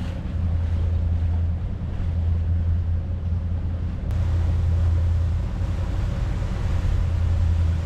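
Motorboat engine running steadily underway with a low drone, over the rush of wind and water.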